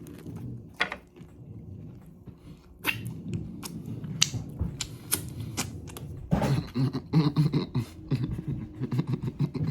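Person biting and chewing a sandwich close to the microphone, with wet mouth clicks and smacks. The chewing grows louder and more rhythmic from about six seconds in, at about three chews a second.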